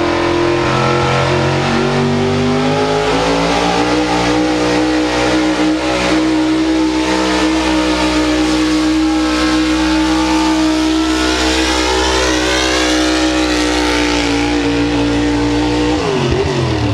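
Pulling truck's engine at high revs under load, its pitch held nearly steady for most of the pull, then dropping sharply near the end as the throttle comes off.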